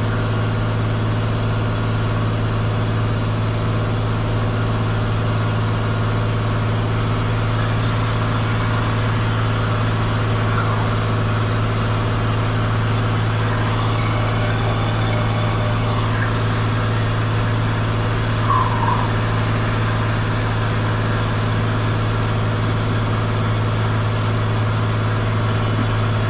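Cessna 182 Skylane's piston engine and propeller running steadily in flight, a constant low drone heard from inside the cockpit, with one brief faint chirp about two-thirds of the way through.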